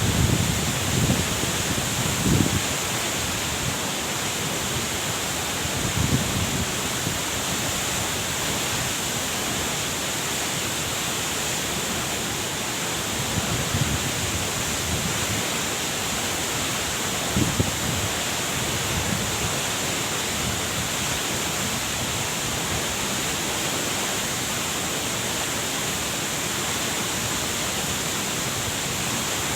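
Huai Luang waterfall, water falling with a steady, even rush, and a few brief low thuds in between.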